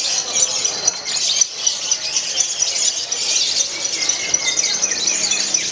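Songbird singing a long, unbroken burst of rapid, high-pitched twittering and chirps.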